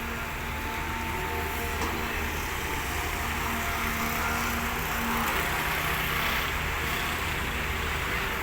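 Heavy earthmoving machine's engine running steadily with a low rumble.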